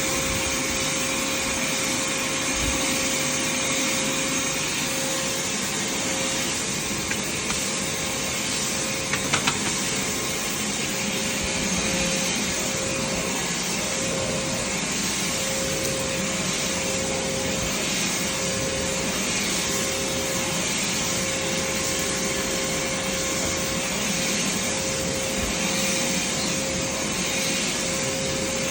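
Vacuum cleaner running steadily: a constant rush of air with a steady motor whine, and a couple of small clicks about nine seconds in.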